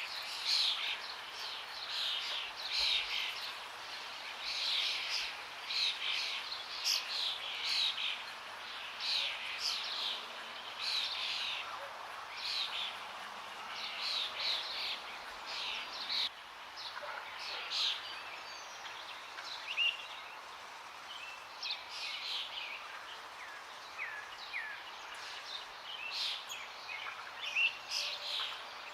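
Forest songbirds chirping and singing in quick repeated phrases, with some short rising notes later on, over a steady rush of running water.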